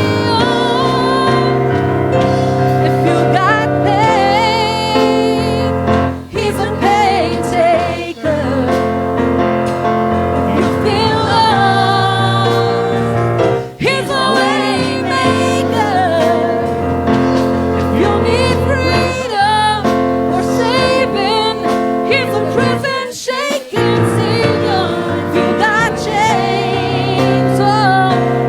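Gospel music: a singer and choir over piano and keyboard accompaniment, with a short break about 23 seconds in.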